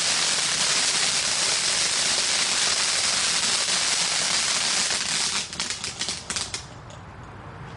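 Firework fountain spraying with a dense, hissing crackle, which breaks into a few last sharp crackles about five seconds in and then burns out.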